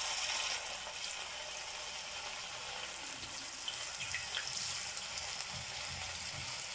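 Coated cauliflower florets sizzling steadily in hot coconut oil in a frying pan, with more pieces dropped in one by one.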